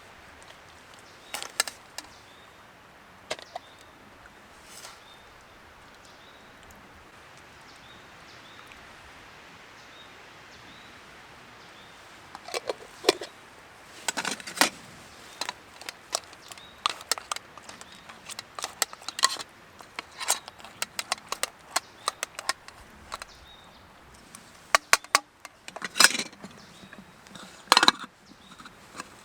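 Irregular sharp wooden clicks and knocks, a few at first, then coming thick and fast from about halfway through.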